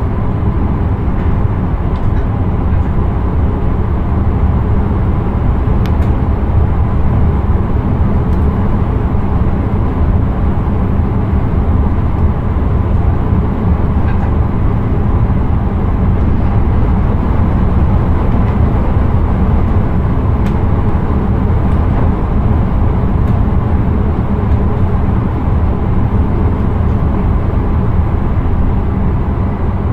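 Steady rumble of a passenger train running along the line, heard from inside the driver's cab, with a few faint clicks over the top.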